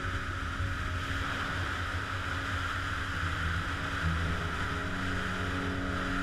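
Yamaha FZR 600 inline-four motorcycle riding along: a steady rush of wind over a low engine drone, with faint held notes of background music.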